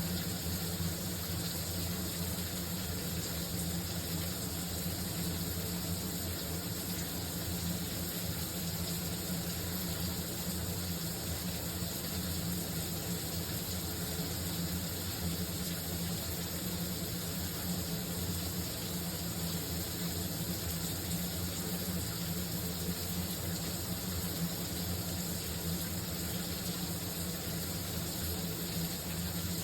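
Shower running steadily, water spraying in an even, unbroken hiss with a low rumble underneath.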